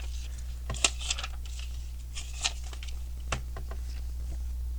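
Small plastic LEGO pieces clicking and tapping as they are handled and fitted, with scattered sharp clicks, a few of them louder.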